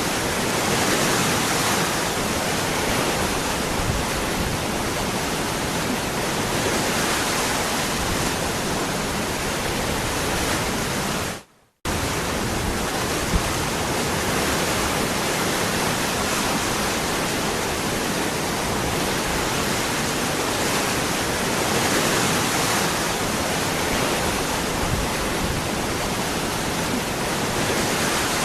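Waterfall rushing steadily. Partway through, the sound fades out for a fraction of a second and then cuts back in abruptly.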